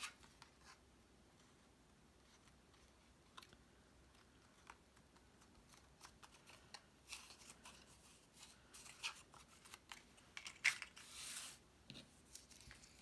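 Faint handling of cardstock pieces: scattered small taps and clicks with short paper rustles, busier in the second half.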